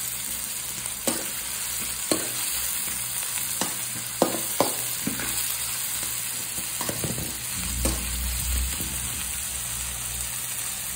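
Chopped onions and tomatoes sizzling as they fry in oil in a metal kadai, with a metal spoon scraping and knocking against the pan now and then as they are stirred.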